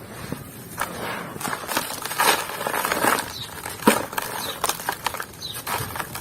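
Dry, crumbly clumps being crushed and breaking apart: an irregular run of gritty crackles and soft crunches, with sharper cracks about two and four seconds in.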